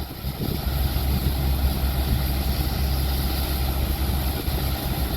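Heavy diesel engine running steadily: an even, low drone.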